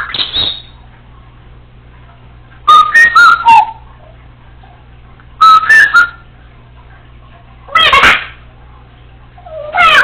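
Congo African grey parrot whistling: four short bursts of gliding whistled calls, each under a second, a couple of seconds apart.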